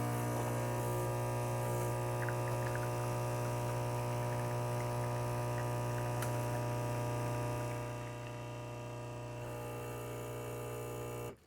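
Saeco Pico Baristo's vibratory water pump humming steadily as it forces water through the brew unit during espresso extraction. The hum drops a little about eight seconds in and cuts off suddenly near the end as the shot finishes.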